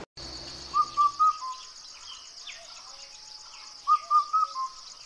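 Forest ambience: a bird whistles the same short phrase of four or five notes twice, about three seconds apart, over a steady high pulsing trill of insects.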